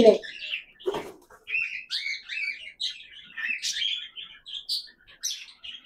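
Small pet parrots chirping in quick, high, overlapping calls.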